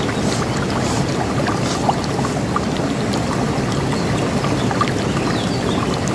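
River water flowing and rushing steadily, with a few short high bird chirps scattered through it.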